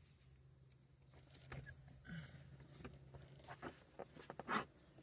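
Faint scattered clicks and taps of hands and tools working on the Jeep's trim and roof fittings, with one louder knock near the end, over a low steady hum.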